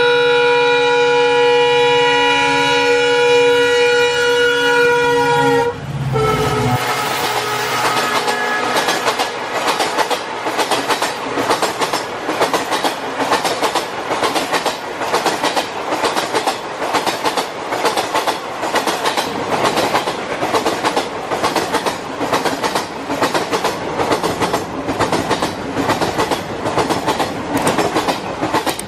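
Train horn sounding a steady, multi-toned blast for about six seconds that cuts off abruptly, followed by the even clickety-clack of train wheels running over rail joints.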